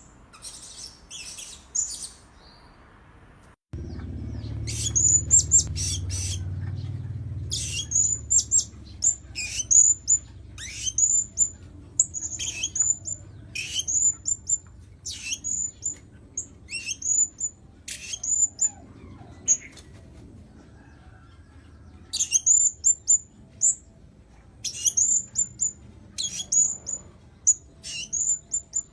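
Blue-crowned hanging parrot calling: short, shrill, high-pitched notes repeated about once a second, with a brief lull near the two-thirds mark. A low steady hum sits underneath from about four seconds in.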